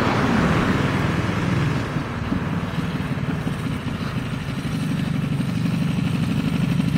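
Mini bike's small single-cylinder Briggs & Stratton engine running under a rider. Its exhaust beat grows louder and more evenly pulsing over the last couple of seconds.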